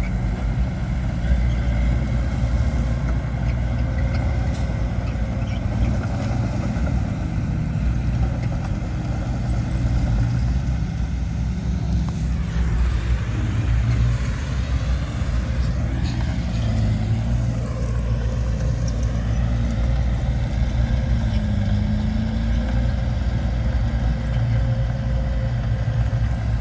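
Heavy earthmoving machinery's engine running steadily with a deep, even hum. About halfway through, a higher whine rises and falls for a few seconds.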